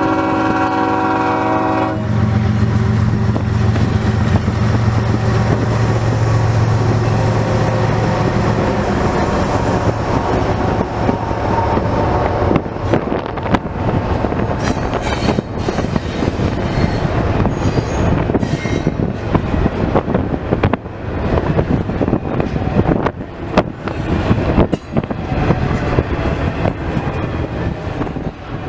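Multi-chime air horn on a diesel freight locomotive sounding a chord that cuts off about two seconds in, then the locomotives pass with a loud engine drone, followed by the rumble and clicking of freight cars rolling by, fading near the end.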